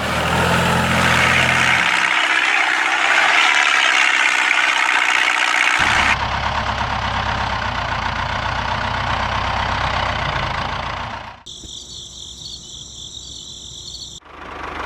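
Small engine running, in several abruptly cut clips that change character. About three seconds before the end, the engine cuts out and insects chirp for a few seconds, before the engine sound returns.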